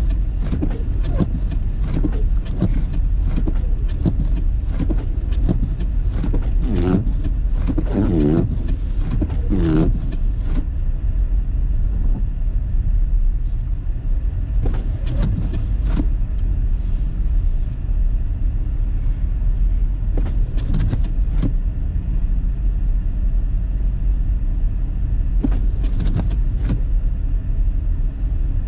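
Car driving on snowy roads in a blizzard, heard from inside the cabin: a steady low road and engine rumble, with many short knocks and clicks that are thickest in the first ten seconds.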